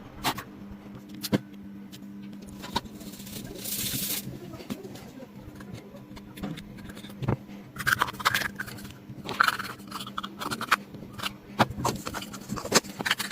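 Small hand-work noises from repairing an LED light: scattered sharp clicks and scratching or scraping, heaviest about two-thirds of the way through, over a steady low hum.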